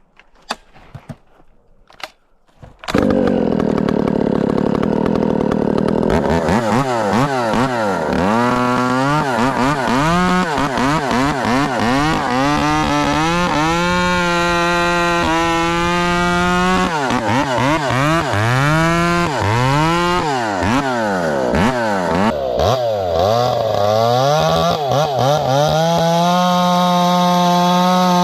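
A few light taps, then a two-stroke chainsaw bursts into loud running about three seconds in. It is revved and worked through wood, its pitch repeatedly dropping as it loads in the cut and climbing again as it frees up, with stretches held at a steady high speed.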